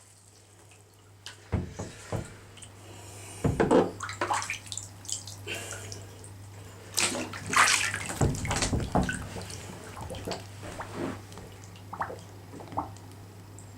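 Water splashing and sloshing in irregular bursts around a small RC jet boat as it rolls upright after a capsize and its hull drains.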